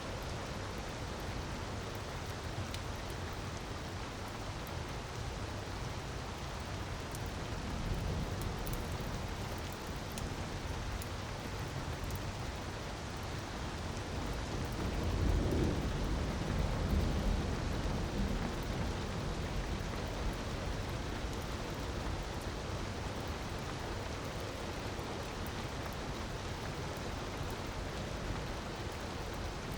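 Relaxing ambience mix: a steady rush of falling water with faint fire crackles ticking through it. A low rumble swells twice, briefly about a quarter of the way in and more strongly around the middle.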